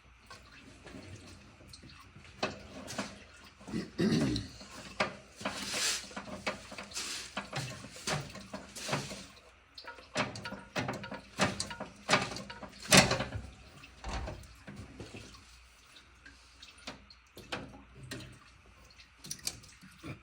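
Scattered metal clicks, clinks and light scrapes of hand-tool work and small parts being handled on the throttle linkage, with one sharp knock about 13 seconds in.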